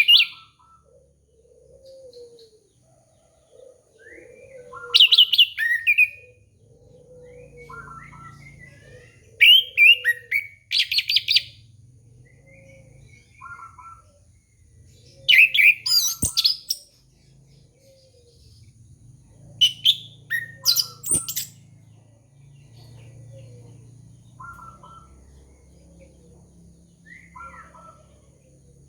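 Orange-headed thrush (anis kembang) singing: four loud bursts of rapid, varied high phrases, a few seconds apart. Between them a softer low call repeats about once a second.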